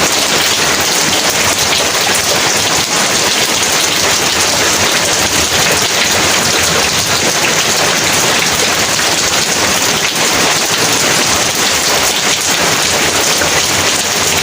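Heavy rain pouring down steadily, a dense, even hiss of drops on surfaces with no let-up.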